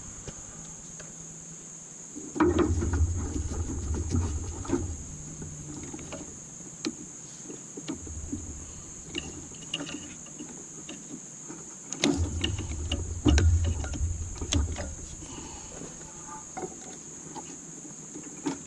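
Hands-on work noises during an engine teardown: scattered sharp clicks and clinks of metal parts and tools, with three spells of dull low bumping and rumbling, over a steady high hiss.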